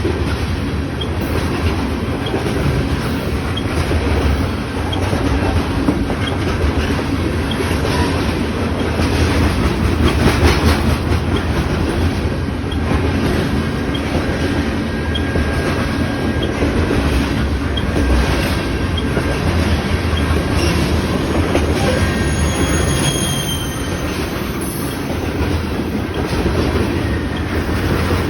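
Freight train of grain hopper cars rolling past, a steady rumble of steel wheels on the rails. A few brief high wheel squeals come in the second half.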